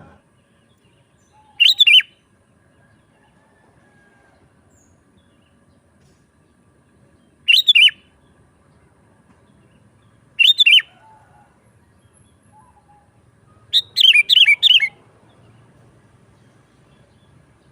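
Sooty-headed bulbul (kutilang) singing in short, loud phrases of quick chirping notes: three brief phrases spaced several seconds apart, then a longer run of five or six notes near the end.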